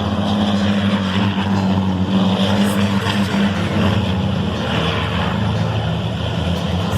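A vehicle engine running steadily, a low even drone with a lot of mechanical noise and no rise or fall in pitch.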